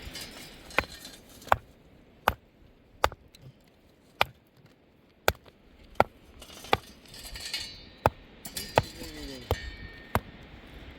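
Repeated sharp blows of a hand tool striking, about one every three-quarters of a second, with a short break just past the middle.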